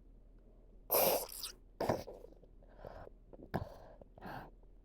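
A person's voice making short, breathy noises rather than words: a loud hissing exhalation or grunt about a second in, then several shorter, fainter ones.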